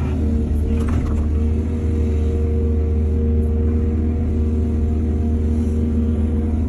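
Heavy diesel engine of an excavator running steadily with a deep rumble, with a brief clatter about a second in.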